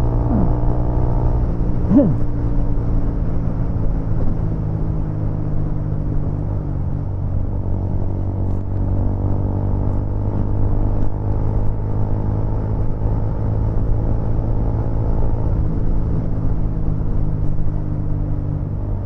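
Motorcycle engine running at a steady cruise, heard from a helmet-mounted action camera; its pitch shifts slightly a couple of times as the speed changes.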